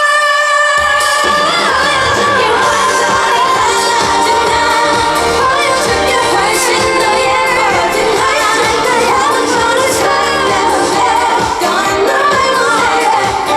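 Live pop song: a woman singing long, wavering vocal lines over a full band backing. The bass end drops out for a moment at the start and comes back about a second in.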